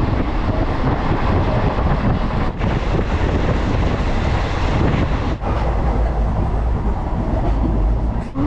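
Passenger train running at speed, with a steady heavy rumble and rattle of the coach and wheels on the track, broken by three brief drop-outs.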